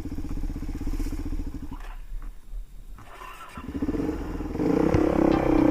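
Motorcycle engine running, dropping almost to silence for about a second and a half around two seconds in, then picking up again and revving louder near the end.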